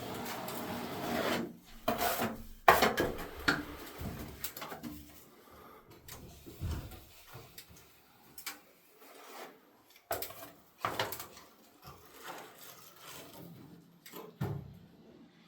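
Hand tool scraping and rubbing over a plastered ceiling in irregular strokes, as in putty and mortar patching work. The strokes are busiest and loudest in the first few seconds, then come sparser and fainter.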